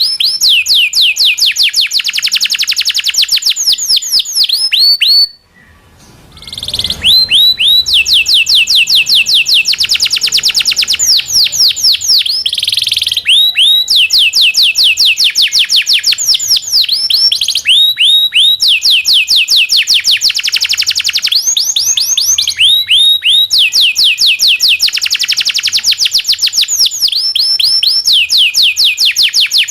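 Local domestic canary singing long rolling trills: rapid runs of falling notes, about six or seven a second, in repeated phrases. There is a short break about five seconds in.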